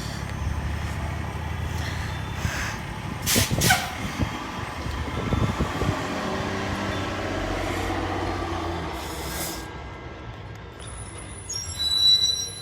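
Garbage truck's diesel engine running, with two short hisses of released air, like an air brake, about three and a half seconds in. The engine's pitch rises and falls a few seconds later. Near the end come loud high ringing tones like a chime.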